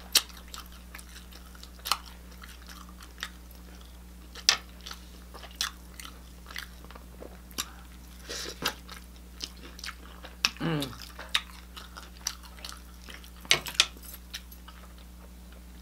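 Close-up crunching and chewing of fried chicken, with short sharp crunches scattered throughout and a brief falling hum of the voice about ten and a half seconds in.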